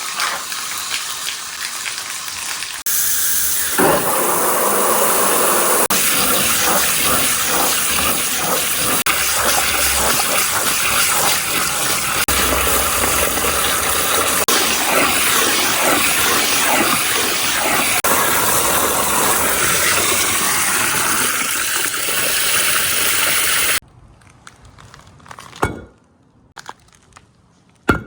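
Many marbles rolling and clattering down a four-tier marble run slope in a dense, continuous rattle. The rattle grows louder a few seconds in and stops abruptly near the end, leaving a few single clicks.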